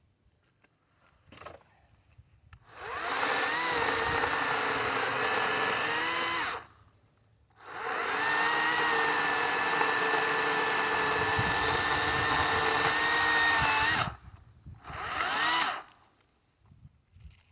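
Kobalt 40V Max cordless electric chainsaw running in three bursts as it cuts wood: about four seconds, a short pause, about six seconds, then a brief burst near the end. The motor whine holds steady, with slight dips in pitch.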